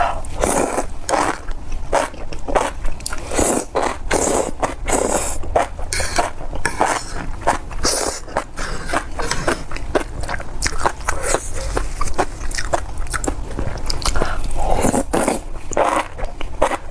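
Close-up chewing and biting of spicy enoki mushrooms: a steady run of quick, irregular wet mouth clicks and smacks, several a second, over a low steady hum.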